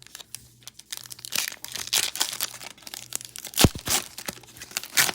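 Trading-card pack wrapper crinkling and tearing as it is opened and handled, a busy run of crackles with one sharp snap past the middle.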